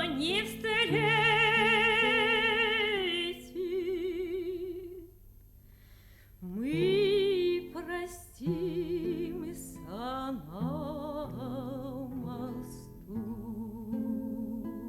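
Woman singing a Russian romance in a classical style with wide vibrato, holding long final phrases, to acoustic guitar accompaniment. Near the end her voice drops out and the guitar plays on alone.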